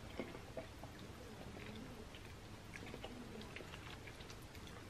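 Faint chewing of a mouthful of nachos, with small scattered clicks from a plastic fork scooping in a foam takeout container.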